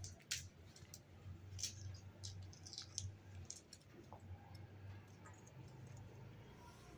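A parrot's beak clicking and tapping on a mobile phone: a quick run of light taps in the first four seconds, then a few more, over a faint low hum.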